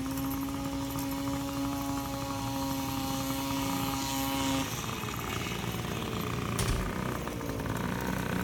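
Small dirt bike engine running at a steady pitch, which breaks off about halfway through and gives way to a fainter engine sound that falls slightly in pitch.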